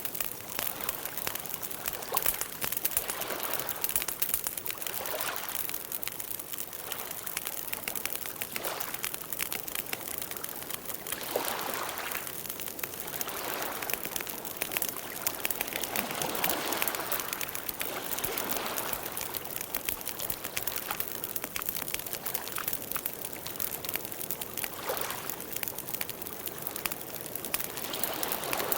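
Wood campfire burning: a steady run of small crackles and pops over a soft hiss that swells now and then.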